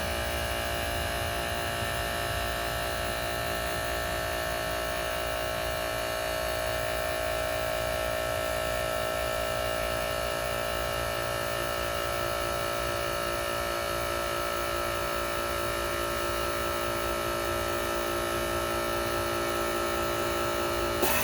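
Air conditioning unit running with a steady hum of several tones over a low rumble. Right at the end a brief knock is followed by a louder, harsher noise starting up: the recurring noise the unit makes about every 30 seconds.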